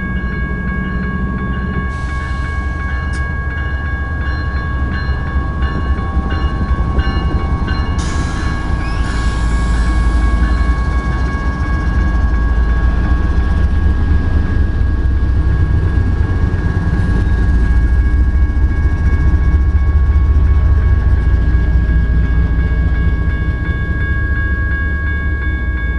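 A BNSF freight train passing close by: the low rumble of two GE ES44DC diesel locomotives going past, then the rolling of trailer-carrying cars, which grows louder about a third of the way in. Over it, the crossing's General Signals type 1 electronic bells ring steadily.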